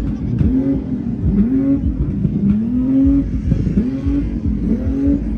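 A car engine revved hard over and over, each rev climbing and dropping back about once a second, with faint crackles from the exhaust as it shoots flames.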